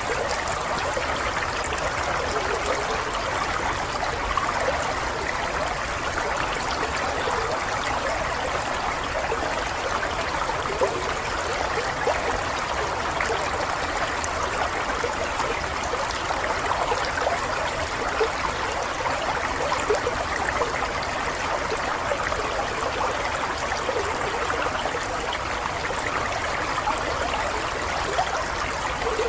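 A small stream running steadily, a continuous babble of water with fine trickling detail and no pauses.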